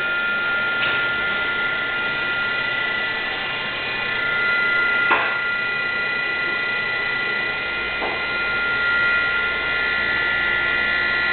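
Lathe's three-phase motor fed by a Yaskawa Varispeed G7 drive, giving off a steady, high-pitched whine of several tones while the drive runs its auto-tune setup. A low hum joins about two thirds of the way through, with a few faint ticks.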